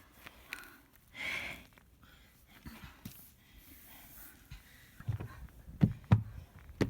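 A person breathing hard, with a heavy breath about a second in. This is followed near the end by several sharp knocks and thumps, the loudest of which come in the last two seconds.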